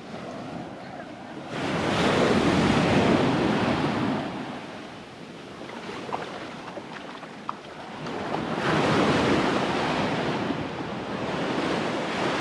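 Ocean surf breaking and washing up the beach, two waves swelling and fading a few seconds apart, with wind on the microphone.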